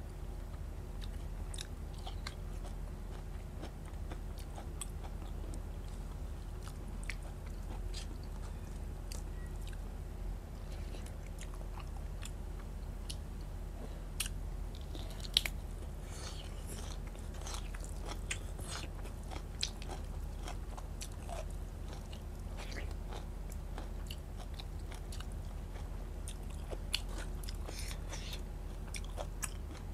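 Close-up chewing of rice and curry eaten by hand, with many short scattered clicks from mouth and fingers, picked up by a clip-on microphone; a steady low electrical hum runs underneath.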